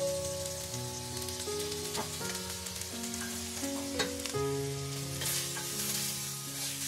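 Chopped tomatoes and onions sizzling in hot oil in a clay pot, stirred with a wooden spatula that knocks against the pot a couple of times, over soft background music of held notes.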